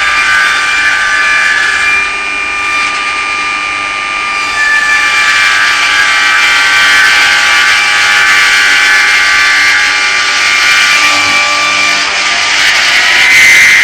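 Homemade circular-blade sawmill, driven by an 11 kW electric motor, sawing through an oak log with a steady high whine from the spinning blade. The sound grows louder about four and a half seconds in and again near the end.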